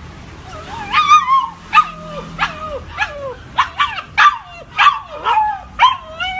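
Husky puppy giving a run of about ten short whining yelps, each sliding down in pitch.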